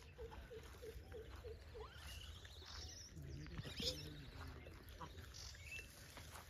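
Faint birdsong: a quick run of short repeated notes, then scattered higher chirps, with a brief low call about three seconds in.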